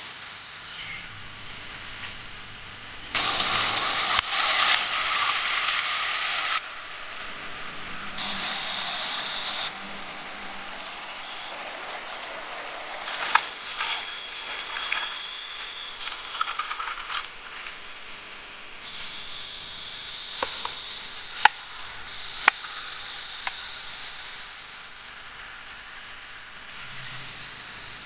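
Outdoor cooking sounds: stretches of sizzling hiss that start and stop abruptly, with a few sharp knocks and clicks in between.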